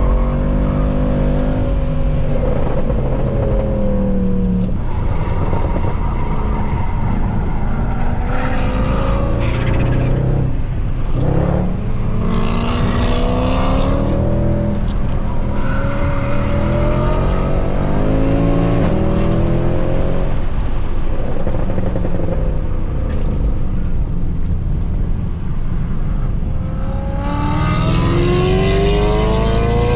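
Mercedes C63 AMG's 6.2-litre V8, with its secondary catalytic converters and resonators deleted, driven hard: the engine note climbs and falls again and again, dropping sharply in pitch several times.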